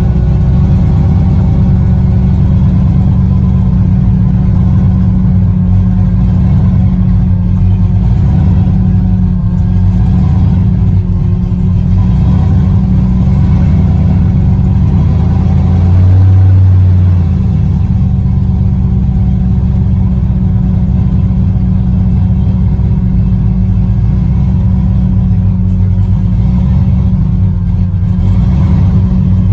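Truck engine running through a loud exhaust at low speed, a deep steady rumble. It swells louder briefly about sixteen seconds in, like a short rev.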